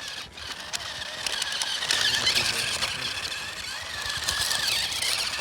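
A small electric motor whining, its pitch wavering up and down, with light clicking and rattling.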